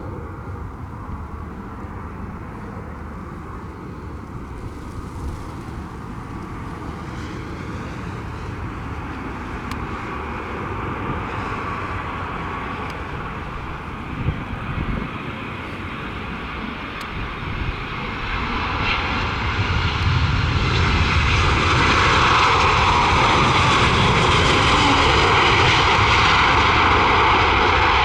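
Airbus A320-232 jet airliner's IAE V2500 engines, growing steadily louder as the aircraft draws near, then holding a loud roar with a whine from about twenty seconds in.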